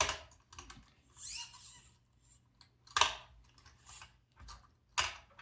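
Small plastic robot-kit parts and wiring being handled while the wires are tidied: three sharp clicks, with a brief scraping rasp about a second in.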